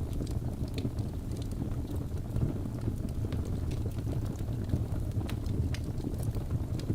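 Birch logs burning in a fireplace: a steady low rumble of the fire with scattered sharp crackles and pops, a few a second.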